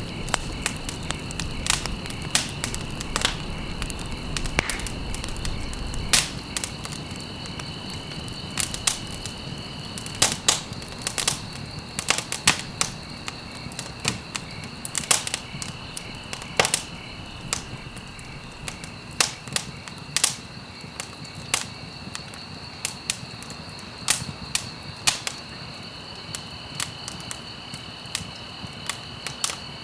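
Wood fire crackling in a fireplace, with many irregular sharp pops and snaps over a low rumble that fades after about six seconds. A steady high-pitched tone runs behind it.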